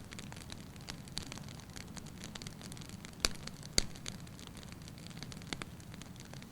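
Logs burning in a fireplace: a steady low rumble of flames with frequent small crackles, and two loud pops a little past the middle.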